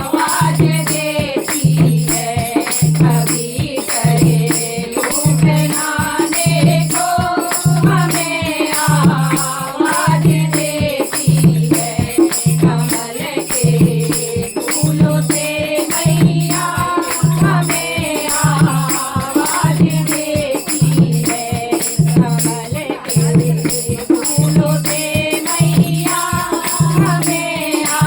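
Hindi devotional bhajan music: a sung or played melody over a steady low drum beat about once every 0.8 seconds, with jingling, rattling percussion.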